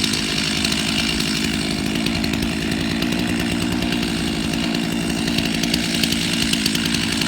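Two-stroke Stihl chainsaw idling steadily without revving, warming up before cutting.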